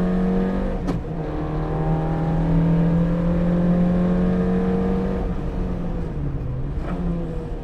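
Peugeot 205 rally car's engine heard from inside the cabin under hard acceleration: a quick gear change about a second in, then the revs climb steadily. About five seconds in the revs fall away as the car slows for the next bend.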